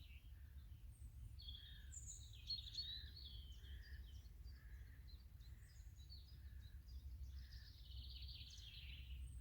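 Wild birds singing: quick trilling, chirping phrases, with a softer note from another bird repeated every second or less, over a low steady rumble.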